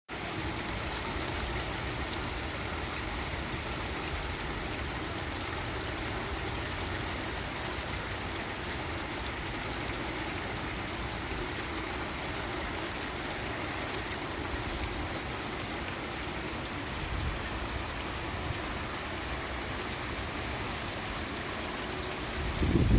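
Steady rain falling, with a low rumble underneath and a short loud thump just before the end.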